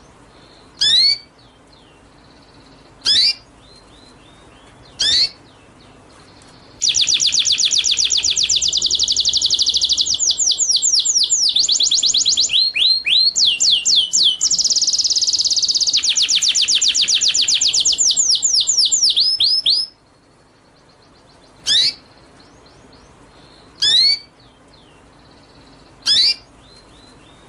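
Songbird calling: one sharp, sweeping call about every two seconds. From about seven seconds in it breaks into a loud, fast run of repeated sweeping notes lasting about thirteen seconds, then goes back to the single spaced calls.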